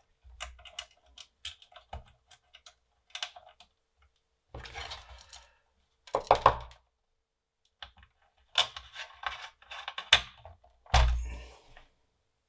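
Clicks and light metallic clatter from handling the screws and parts of a floppy drive unit's metal case during reassembly, with sharper knocks in the middle and a heavier thud near the end.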